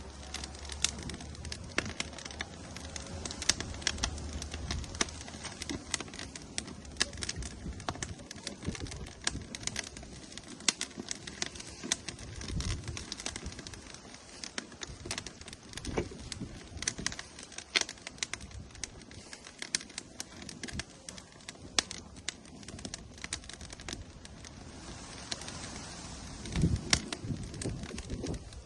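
Wood fire burning in an outdoor grill, crackling with frequent sharp pops over a steady hiss. A few dull low thumps come through, the loudest near the end.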